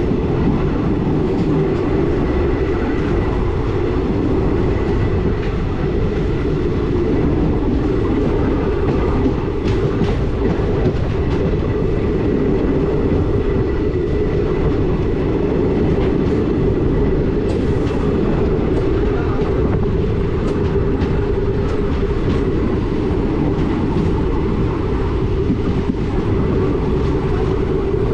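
Passenger train coach running along the track: a steady low rumble of wheels on rail, with a few faint clicks scattered through it.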